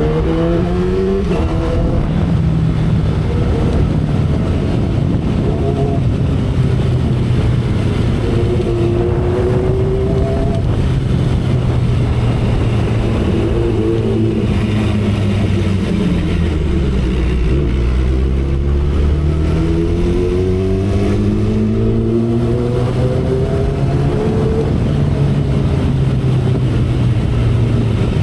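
2012 Kawasaki Ninja ZX-10R's inline-four engine pulling at highway speed, its pitch climbing in steps through the first part, dropping away to its lowest about two-thirds of the way through, then climbing again. Wind noise runs underneath.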